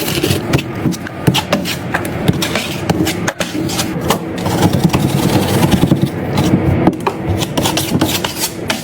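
Hand tool scraping and rubbing over a drywall surface, with many small clicks and taps throughout.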